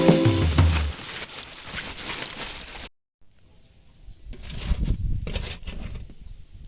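Background music dies away in the first second, then a sudden cut to outdoor yard ambience: a steady high whine, low rumbling, and a few rustles and bumps around the middle.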